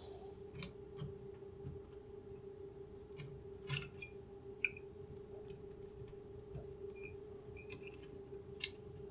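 Faint, irregular small clicks and scrapes of a vacuum tube being wiggled in its socket on an old receiver chassis to work it loose, over a steady low hum.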